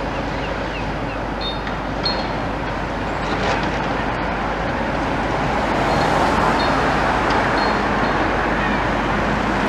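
Steady engine noise from road traffic and a demolition excavator working, swelling a little about six seconds in, with a few short faint high squeaks.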